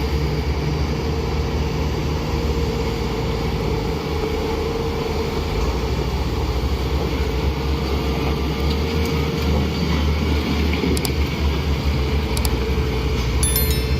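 A steady, low engine rumble, with a few sharp clicks near the end.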